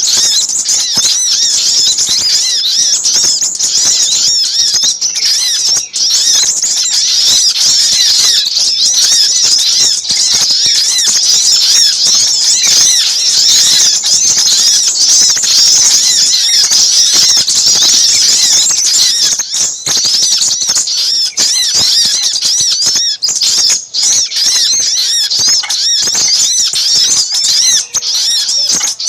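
A dense, unbroken chorus of small birds' rapid high chirps and twitters, many overlapping at once. This is a bird-trapping lure recording of busy sogok ontong sunbird calls mixed with sepah raja minivet calls.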